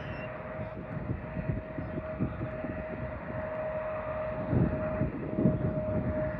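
Jet airliner engines running with a steady whine over an irregular low rumble.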